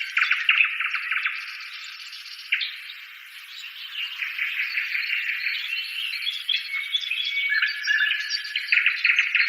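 High-pitched chorus of bird calls: fast chittering trills and short whistled notes overlapping, with nothing heard below a fairly high pitch. It is quieter for a stretch about two to four seconds in.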